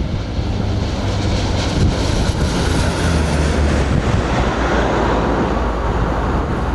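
ATR turboprop aircraft in formation flying past, a steady low drone that swells a little in the second half, with wind noise on the microphone.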